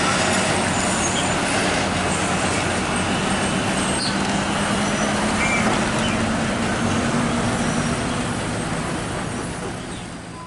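Heavy truck's diesel engine running with road noise, a steady drone that fades out near the end.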